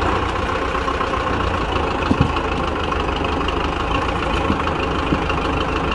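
Tractor diesel engine running steadily at low revs, with a brief knock a little after two seconds in.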